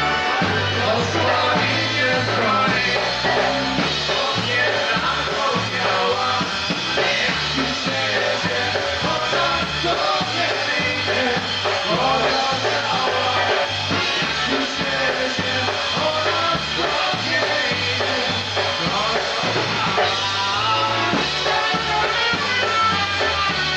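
Live polka band playing an instrumental passage, with a bass line bouncing steadily between two notes under the melody instruments.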